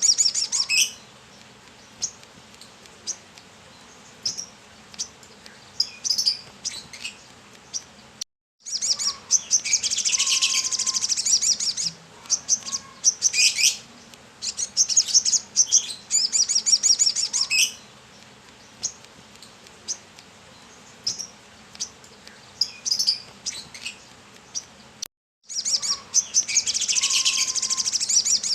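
Sunbird (kolibri kelapa) singing vigorously: repeated bursts of rapid, high twittering song lasting a second or more each, with scattered single chirps in between and two very brief cuts to silence.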